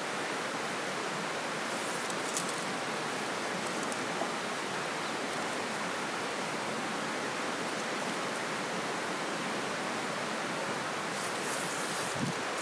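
Steady rush of flowing river water, with a few light rustles near the end.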